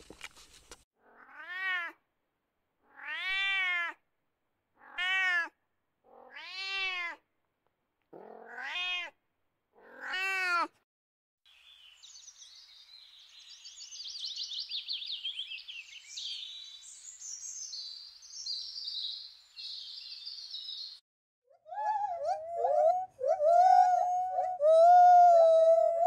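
Animal calls: about six short calls that rise and fall in pitch, spaced about a second and a half apart. These are followed by several seconds of high, rapid chirping. Near the end comes a louder, wavering call.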